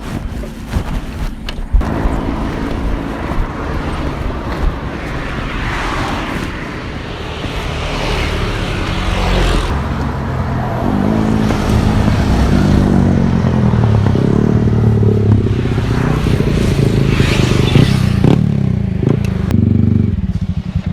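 Honda CBR250RR motorcycle engine running on the move, with wind and road noise; about halfway through, the engine note grows louder and steadier.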